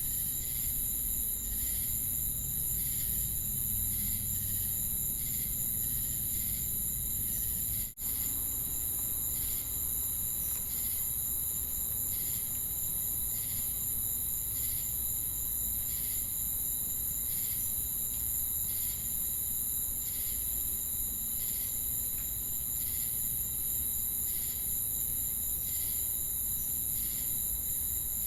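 Crickets and cicadas singing together: a steady high-pitched drone with a regular pulse of short chirps over it. The sound cuts out for an instant about eight seconds in.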